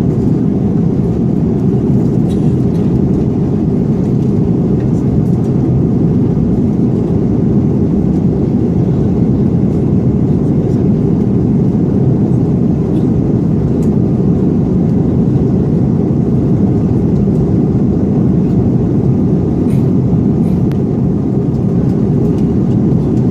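Steady in-flight cabin noise of an Airbus A330-300 airliner: engines and rushing air as an even, deep noise that does not change, with a few faint clicks.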